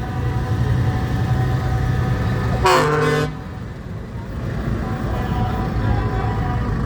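Truck engines running low and steady as parade trucks pass, with one short truck horn blast about three seconds in.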